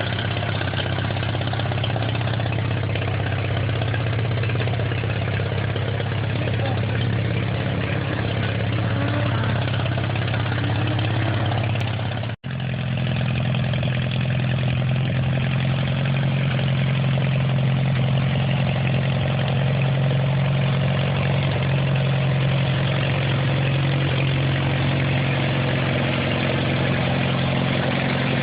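Allis-Chalmers B tractor's four-cylinder engine running steadily. The sound cuts out for an instant about halfway through, and the engine comes back at a slightly higher pitch.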